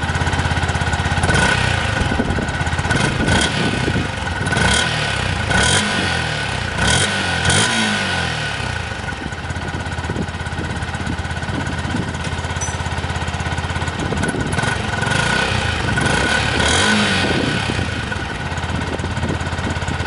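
Yamaha WR125X's single-cylinder four-stroke engine running at idle, with the throttle blipped several times in the first half and once more near the end, the pitch rising with each rev.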